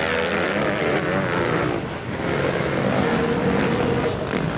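Motocross motorcycle engines revving, their pitch wavering up and down. The sound dips briefly about two seconds in, then picks up again louder.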